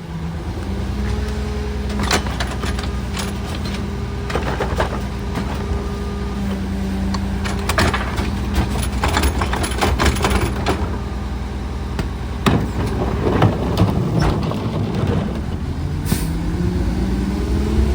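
Garbage truck engine running steadily, with repeated clanks and knocks of metal and trash handling, and the engine revving up near the end.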